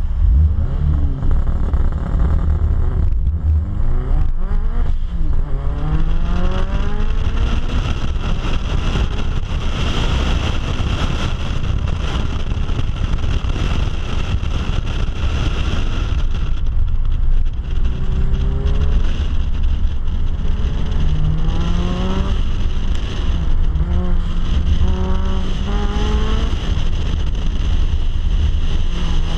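Car engine recorded from inside the cabin during a hard timed run, revving up through the gears with its pitch climbing, then rising and falling again in a run of shorter bursts as the driver accelerates out of corners and lifts, over a heavy low rumble.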